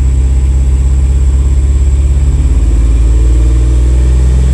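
Ford Fox-body Mustang's engine running off idle under light throttle, held at roughly 1,800 to 2,300 rpm while the Holley Terminator X ECU learns its fuel corrections. Its speed rises a little about halfway through.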